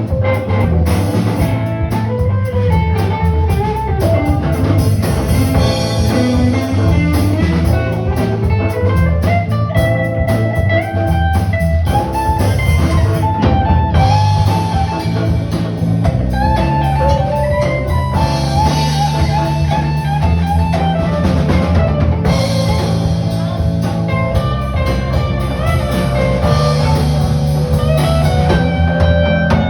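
Live band playing an instrumental blues-rock passage: guitar lines that slide and bend in pitch over a drum kit, with no singing.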